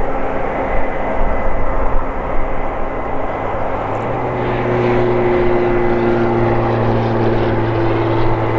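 Combine harvester running steadily in a wheat field: a constant engine drone over machinery noise, with a low hum and a higher tone joining about halfway through.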